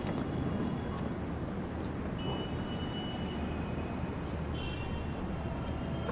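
Steady low rumbling background ambience, with a few faint thin high tones drifting in and out.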